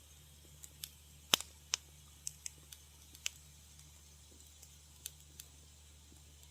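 Wood fire crackling in a fireplace: a run of sharp pops and snaps of varying loudness, thickest in the first half with the loudest pop just over a second in, then a few sparse snaps, over a faint steady low hum.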